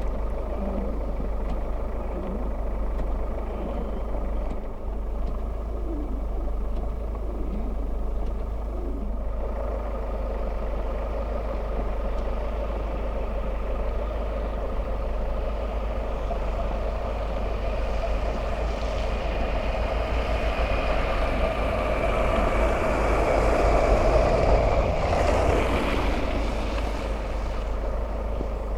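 Steady vehicle engine and road noise, growing louder for a few seconds near the end.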